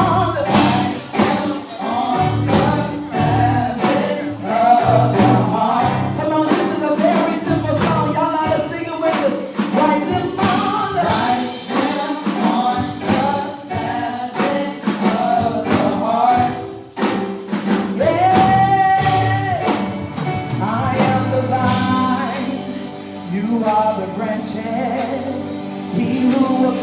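Live gospel worship music: a band playing to a steady beat while singers carry the melody, with one long held note partway through.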